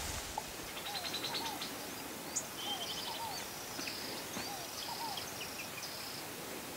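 Several birds calling at once. Short arching whistled notes repeat in the middle range, and fast high trills and rapid series of notes run through the middle of it, over a steady background hiss.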